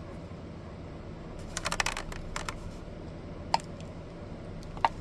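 A quick run of light, sharp clicks about a second and a half in, followed by two single clicks, over a low steady hum.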